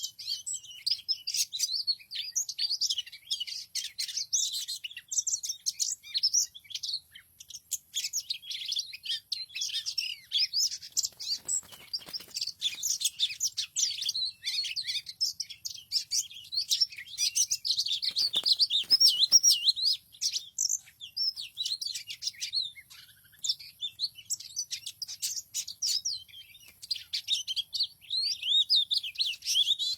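Small birds chirping and twittering continuously in quick, high, overlapping calls, with a faint steady high-pitched tone underneath.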